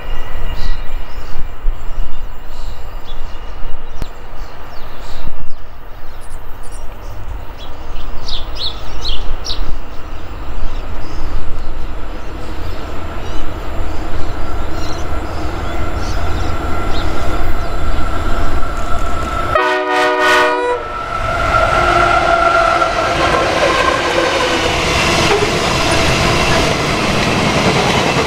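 Gusty wind rumble on the microphone as a diesel freight train draws near. About two-thirds of the way through, the locomotive horn sounds once for about a second. Then the diesel locomotives and a long rake of grain hopper wagons roll past close by, wheels clacking over the rail joints.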